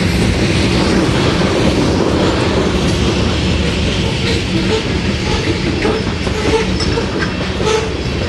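Loaded covered hopper cars of a grain train rolling past: a steady rumble of steel wheels on the rails with clicking and clatter from the wheels and trucks.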